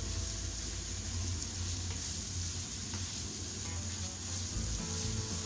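Minced meat (qeema) frying in hot oil in a non-stick wok, a steady sizzle as it is stirred and turned with a spatula.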